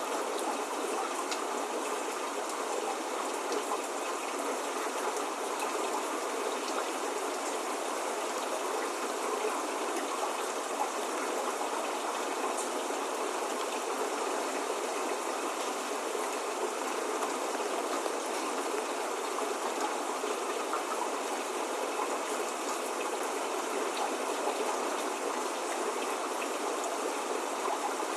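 Steady spring rain falling: an even hiss with faint, fine ticks of drops, with no thunder or birdsong.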